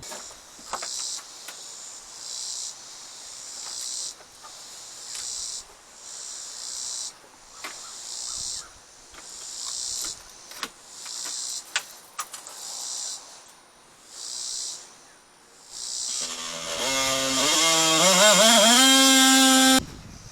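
Insects, likely cicadas, buzz in repeated pulses of about a second each. About 16 s in, a power cutting tool starts, winds up in pitch and runs loud for about three seconds, cutting into the soffit board, then stops abruptly.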